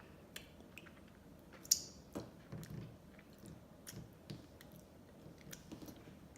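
Close-miked mouth sounds of someone eating ice cream: soft wet smacks and chewing, with scattered small clicks and one sharp click a little under two seconds in.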